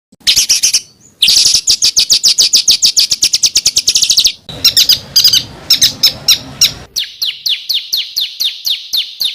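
Small songbird singing fast, harsh trills of sharp repeated notes in several phrases with short breaks between them, the last phrase a run of quick downslurred notes; this is the rapid 'tembakan kasar' (rough shot) song used as tutor material for competition songbirds.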